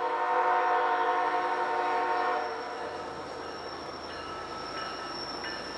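Horn of a GE ES44AC freight locomotive sounding one chord blast of about two and a half seconds, then cutting off, leaving the quieter steady running noise of the train.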